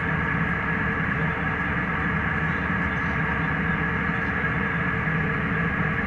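Steady airliner cabin noise in flight: an even rush of engines and airflow, with a constant high whine and a low hum.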